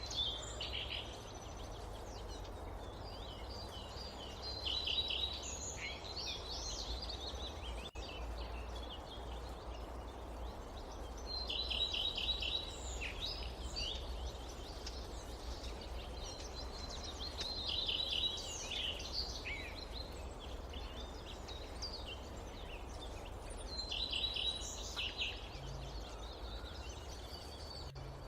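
A songbird repeating a short song phrase, a brief high note followed by a quick run of notes, about every five to six seconds, with a steady low background noise of the forest beneath it.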